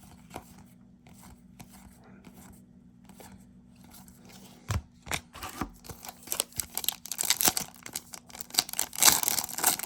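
Hands handling trading cards and their foil pack wrappers: light clicks and rustling. Faint at first, then busy from about halfway, loudest near the end.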